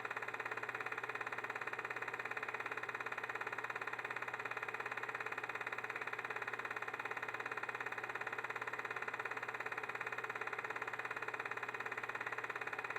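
A machine running steadily, with a fast, even flutter and a low hum beneath it.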